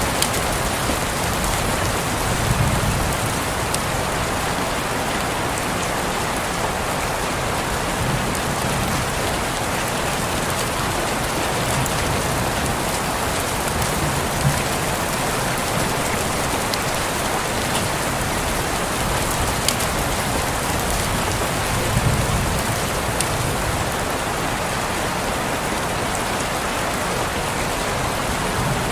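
Steady rain falling on a window, an even hiss with scattered individual drops ticking against the glass and a few soft heavier thuds.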